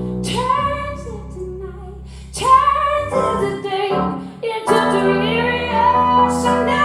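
Live rock performance: a woman singing long held, wavering notes over a band.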